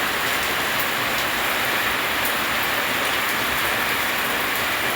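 Rain falling steadily: a dense, even hiss with scattered drops ticking.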